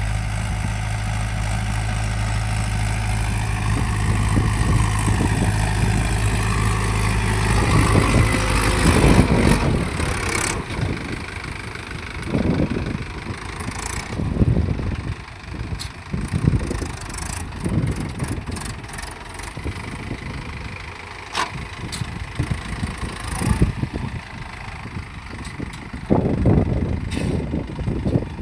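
Mahindra 585 tractor's diesel engine running: a steady low drone for about the first nine seconds, then an uneven run of knocks and rumbles.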